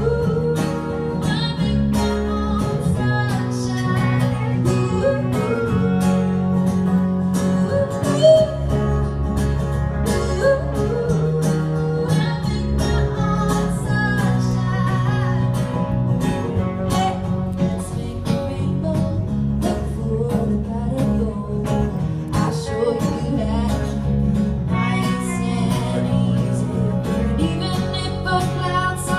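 Live band music: guitar over a bass line that changes note every second or two, with a steady drum beat throughout.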